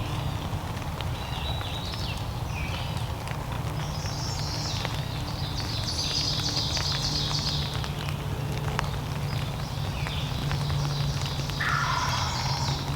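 Small birds singing in chirpy, trilling phrases over a steady low rumble with scattered light taps; near the end a short call falls in pitch.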